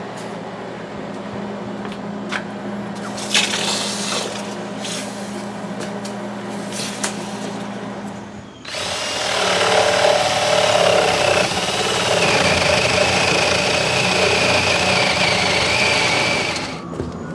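Electric power drill running continuously for about eight seconds, starting about halfway through, with a steady high whine, then stopping. Before it, a low steady hum with a few clicks and knocks.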